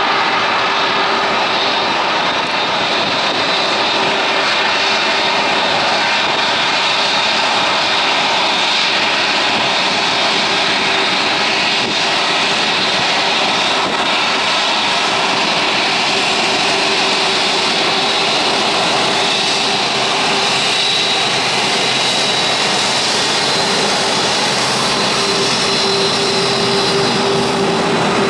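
Airbus A380 four jet engines (Engine Alliance GP7200) running steadily, a loud even roar with a steady hum and a high whine that gets stronger near the end.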